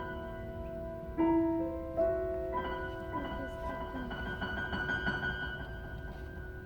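Solo piano playing a classical piece: a couple of struck notes ring out, then from about two and a half seconds a fast, light flurry of repeated high notes plays over held lower notes, fading near the end.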